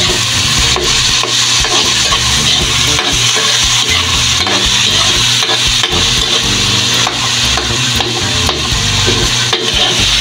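Onion, tomato and garlic sizzling in hot oil in a wok while a metal spatula stirs them, scraping across the pan over and over; a steady sizzle with light scrapes, over a low steady hum. This is the sauté of the aromatics at the start of the dish.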